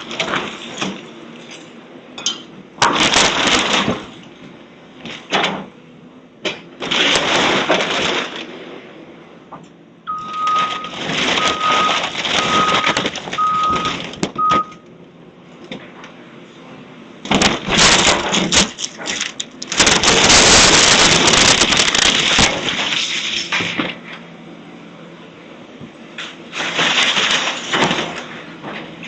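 Demolition machinery tearing down a house: an engine running under repeated loud crashes and scraping of wood and debris, with a reversing alarm beeping about six times in the middle.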